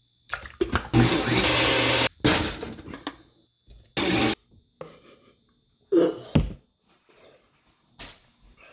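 Countertop blender running for about a second, blending chicken, followed by a few short knocks and thuds, each sound cut off abruptly.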